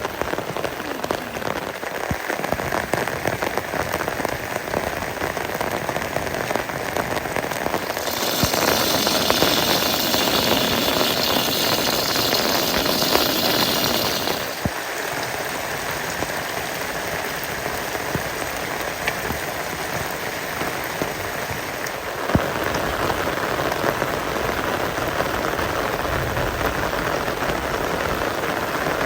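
Steady rain falling, with a louder, hissier stretch of about six seconds in the middle.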